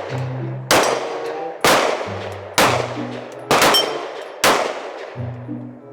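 A string of gunshots fired about one a second, six in all with two in quick succession near the middle, each followed by a long echoing tail. Background music with held low notes plays underneath.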